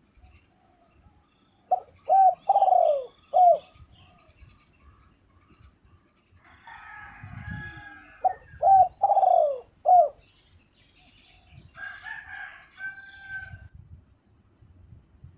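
Spotted dove cooing: two phrases of four low coos each, the notes sliding downward, about six seconds apart. Fainter chirps of other small birds come and go in the background.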